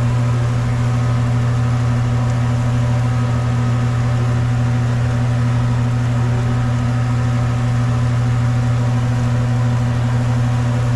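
A steady low hum, unchanging throughout, with fainter steady higher tones above it.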